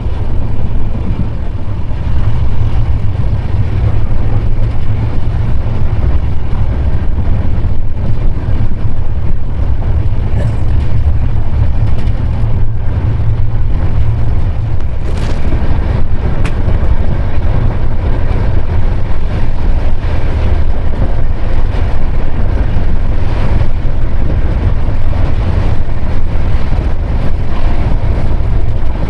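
Moving passenger train heard from on board: a steady, loud low rumble with an even rushing noise, and a brief sharp noise about halfway through.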